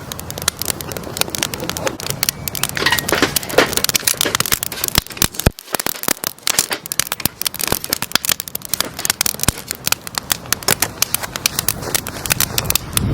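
Wood fire crackling and popping in a fire pit: a dense, irregular run of sharp snaps throughout.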